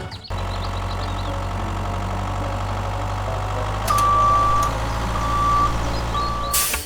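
A vehicle's engine running steadily, with a reversing alarm beeping three times in the second half.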